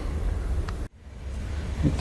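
Low rumble of wind on the microphone, which drops out abruptly to near silence just under a second in and then fades back.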